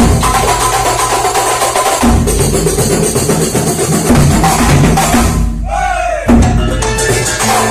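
Kuntulan music played live: drums beating a steady rhythm under a sustained pitched melody. The drumming breaks off briefly a little after halfway, with a few gliding tones, then comes back in.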